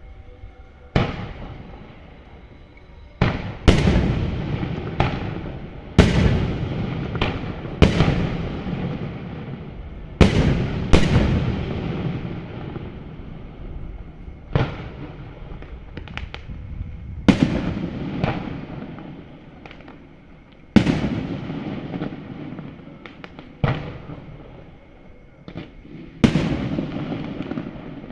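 Fireworks shells bursting overhead: a string of sharp booms at irregular gaps of one to three seconds, some in quick pairs, each trailing off in a rumbling echo.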